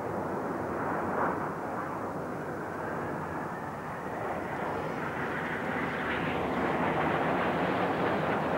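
Formation of BAe Hawk T1 jets flying past: a steady jet roar that grows louder and brighter over the last few seconds.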